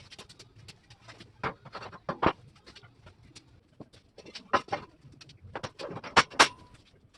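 Irregular light clicks and taps, with a few sharper, louder ones.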